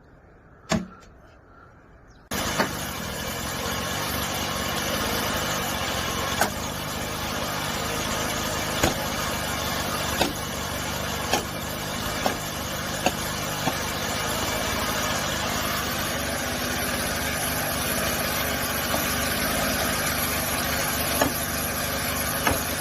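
A single sharp knock, then about two seconds in an engine starts up suddenly and runs steadily at a low, even pitch, with a sharp knock or crack every second or two over it.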